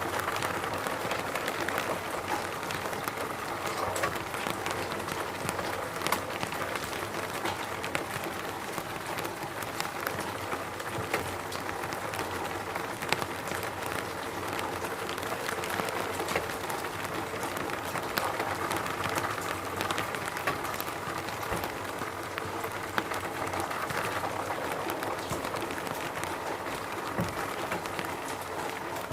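Steady rain falling in a forest: an even hiss with many separate drops ticking through it.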